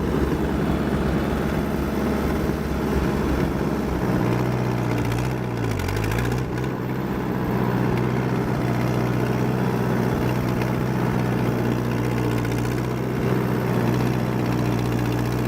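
Allis Chalmers D14 tractor's four-cylinder engine running at full throttle under load, driving a Woods brush hog rotary cutter while mowing grass in low-range second gear. About five to six seconds in the engine's pitch dips briefly and recovers.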